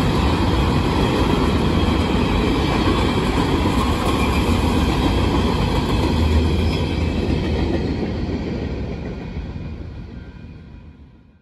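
Freight train's open-top hopper cars rolling past, steel wheels on the rails making a steady rumble with clickety-clack. It fades away in the last few seconds as the end of the train goes by.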